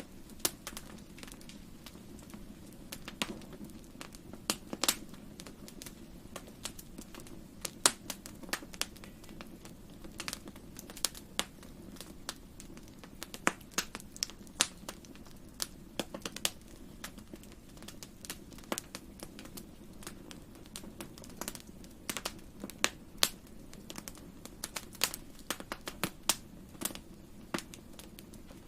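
Wood fire crackling in a fireplace: irregular sharp pops and snaps, a few each second, over a low steady hum of the burning fire.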